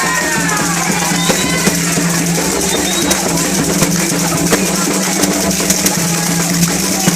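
Candomblé ritual music: drums and hand percussion played in a steady, dense rhythm, with voices singing or calling over it.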